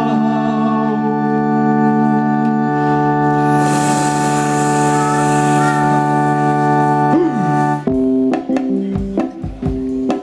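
Live band music: an electric keyboard holds a long organ-like chord, with a cymbal wash swelling in the middle. About eight seconds in the chord changes and the drums and bass come back in with sharp, rhythmic hits.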